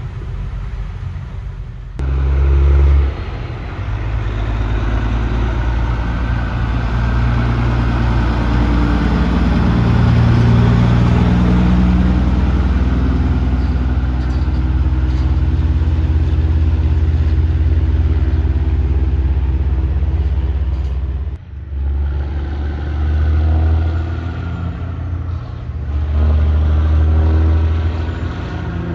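Heavy truck diesel engine running loud and steady, with its note rising and falling. It cuts in sharply about two seconds in and drops out briefly about two-thirds of the way through before coming back in surges.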